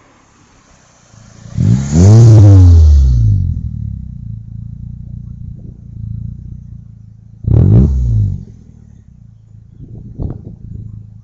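A 1999 Nissan Sentra SE-L's 2.0-litre four-cylinder running through a new aftermarket exhaust: a loud rev that rises and falls about two seconds in, a second shorter rev about eight seconds in, and a couple of small throttle blips near the end, with a steady low idle between them.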